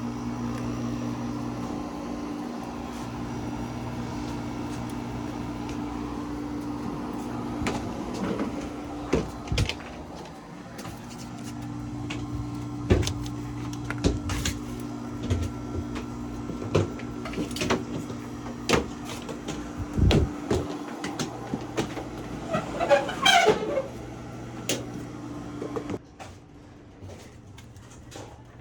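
A running dehumidifier's compressor and fan hum steadily, with a brief break partway through. Over it come repeated knocks, clunks and a short rattle as the unit is handled. The hum cuts off near the end.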